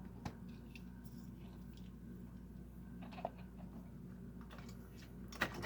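A few faint clicks of small diecast toy cars being handled, over a low steady hum: one a third of a second in, one about three seconds in, and a louder one near the end.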